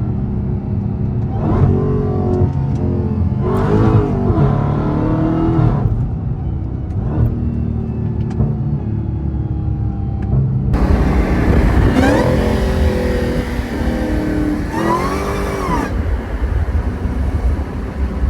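Dodge Charger Hellcat Redeye's supercharged 6.2-litre Hemi V8 running through an exhaust with the mid mufflers deleted, accelerating hard on the move. The engine pitch rises and drops off several times as the car pulls through the gears.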